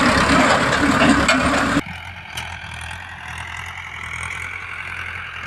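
Mahindra tractor's diesel engine running loudly; about two seconds in the sound drops abruptly to a quieter, steady engine hum.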